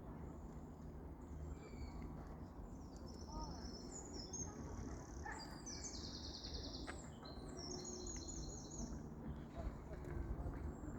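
Small birds chirping and trilling in high, rapid twittering phrases, busiest in the middle of the stretch, over a steady low outdoor rumble.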